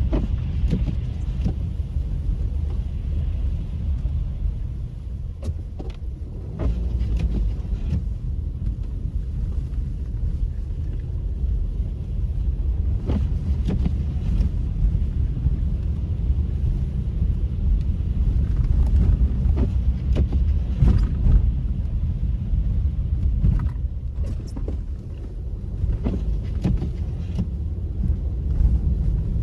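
Car driving on a snowy road: a steady low rumble of engine and tyres, with scattered short clicks and knocks.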